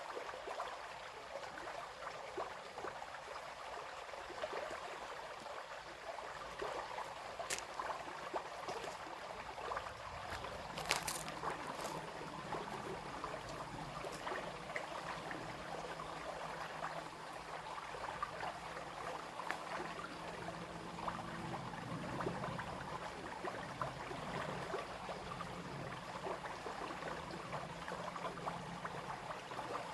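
Small brook babbling and trickling steadily over stones. A few sharp clicks come near the middle, and a faint low hum runs under the water in the second half.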